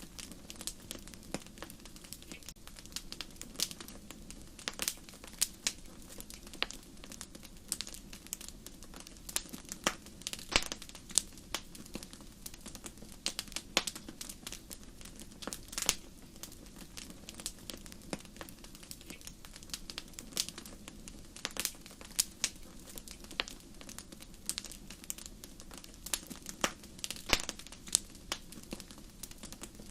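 Wood fire in a fireplace crackling: irregular sharp pops and snaps over a faint steady low background.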